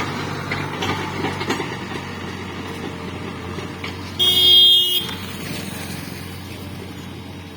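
Tractor engine running steadily, with a vehicle horn sounding once, for under a second, about four seconds in; the horn is the loudest sound.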